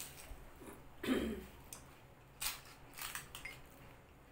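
A person chewing a full mouthful of pani puri, with a few short, crisp cracks past the middle as the next crisp puri shell is handled and broken open.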